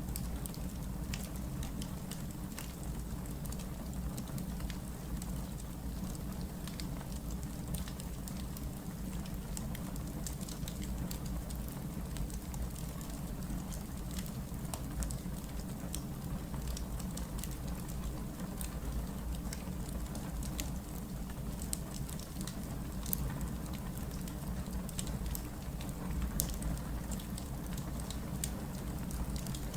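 Wood fire burning, with many scattered sharp crackles and pops over a steady low rumble.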